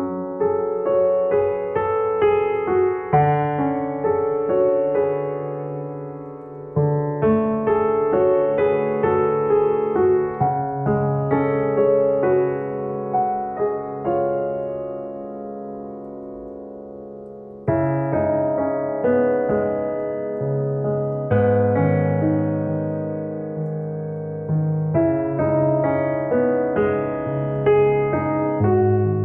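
Background piano music: a gentle, steady stream of struck notes that ring and fade.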